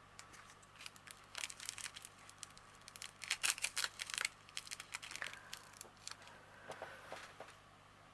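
Small plastic packets of diamond painting drills crinkling and rustling as they are handled and sorted, busiest in the first half and loudest around the middle.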